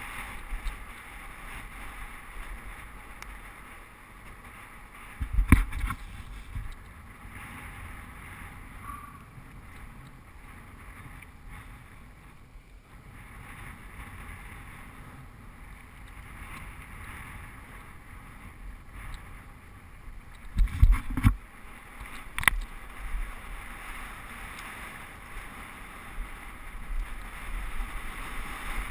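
Mountain bike descending a dirt trail: steady wind rush on the microphone with tyre and trail noise, broken by a few hard knocks from jolts over bumps, one about five seconds in and a cluster about twenty-one seconds in.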